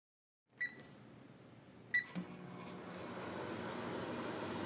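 Microwave oven keypad beeping twice as it is set, then the oven starting up and running with a steady hum that grows louder.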